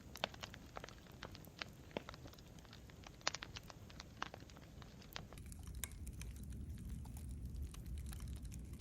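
Campfire crackling: irregular sharp pops and snaps over a low steady rumble of burning. About five seconds in, the rumble grows louder and the pops become sparser.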